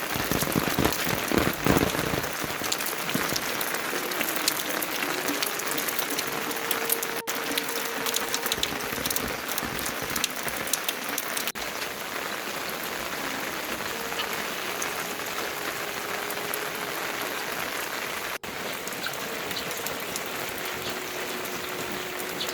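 Steady rain falling, a dense patter of drops that is a little heavier in the first couple of seconds.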